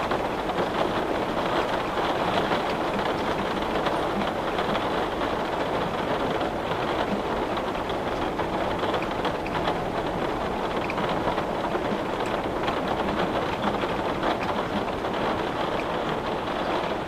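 Steady rain falling on a window: an even hiss with faint scattered drop ticks.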